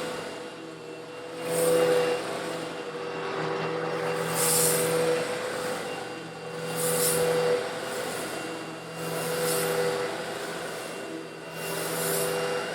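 Old Eureka vacuum cleaner motor running steadily with a constant whine. About every two and a half seconds a surge of gritty, rattling hiss rises and falls as coarse stone granules are sucked up through the nozzle and hose.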